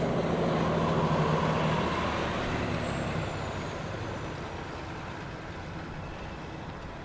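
A heavy road vehicle's engine hum, loudest at first and fading away over the next few seconds as it drives off.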